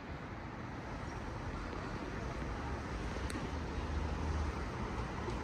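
Steady rumbling background noise with a hiss, like road traffic, slowly growing louder.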